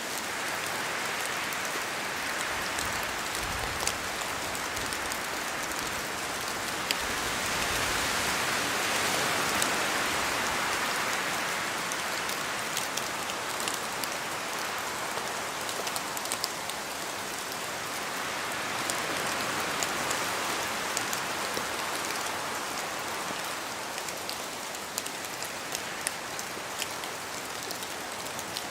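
Steady rain falling in a forest, with scattered drops ticking down from the trees and wind moving through. The hiss swells louder twice, about a third and about two-thirds of the way in.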